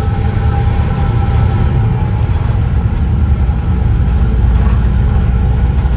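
Ferry engines running with a loud, steady low rumble and a faint steady hum of a few tones above it.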